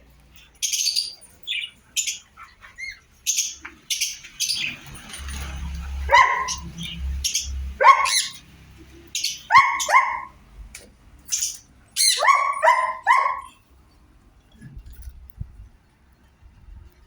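Sun conures calling: high chirps, then short harsh calls in quick runs of two or three in the middle of the stretch, with a low rumble of handling noise behind them for a few seconds.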